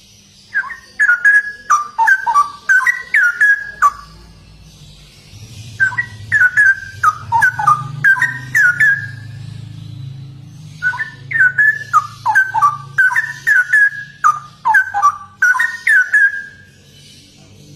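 Straw-headed bulbul (cucak rowo) singing in full voice: three long phrases of rapid, liquid, gliding whistled notes with short pauses between them. A low hum sits under the middle phrase.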